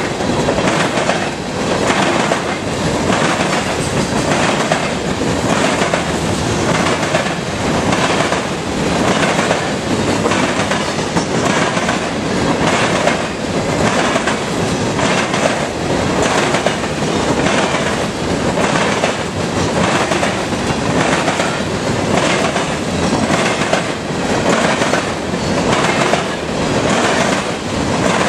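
CSX grain train's covered hopper cars rolling past, a loud steady rumble of steel wheels on rail with a regular clickety-clack as the wheels cross the rail joints.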